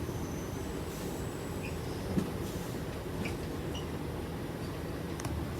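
Steady low rumble inside a Sydney Trains Tangara electric train, with a few faint clicks.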